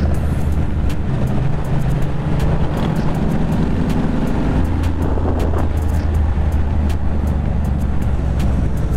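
Ducati Monster 620's air-cooled V-twin running steadily at cruising speed, with wind rushing past.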